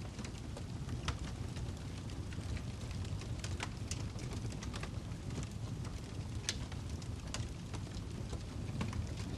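Wood fire crackling in a fireplace: irregular sharp pops and snaps over a steady low rumble from the burning log.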